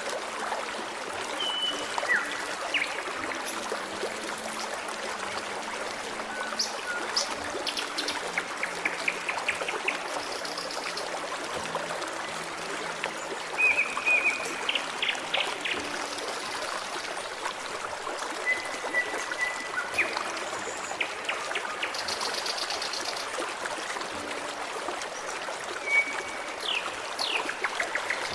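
Forest stream trickling and babbling steadily, with birds chirping and calling now and then over it, including a few short rapid trills.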